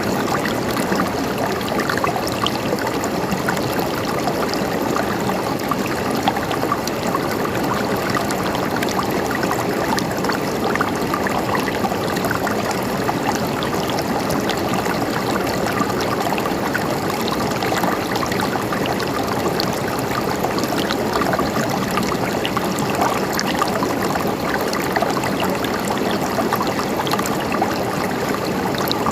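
Water flowing in a stream, a steady, unbroken gurgling and trickling.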